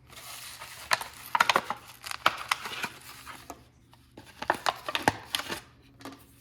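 Dry scraping and rubbing strokes with sharp clicks and taps from hand work on a small tool, in two runs with a short pause between.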